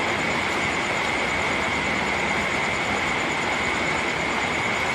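Steady rain falling, an even hiss with a faint constant high-pitched tone running through it.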